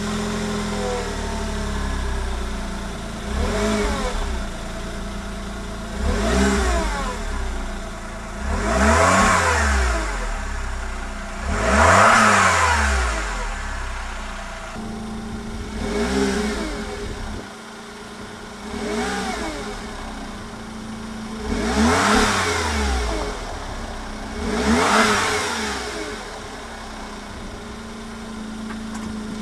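Suzuki Wagon R Stingray's 660 cc three-cylinder engine breathing through an HKS Cool Style aftermarket muffler. It idles and is blipped about eight times, every few seconds, each rev rising and falling back to idle. The third and fourth revs are the longest and highest.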